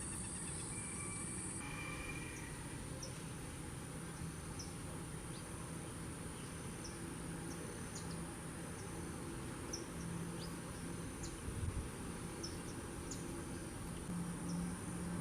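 Steady high-pitched insect trill, with short, thin chirps from small birds scattered throughout.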